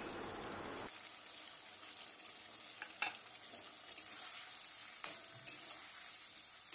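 Potatoes, tomato and ground spice paste sizzling in oil in a metal wok. The hiss is fuller in the first second as a little water is poured in, then settles to a quieter sizzle while a metal spatula stirs, clinking and scraping against the pan a few times.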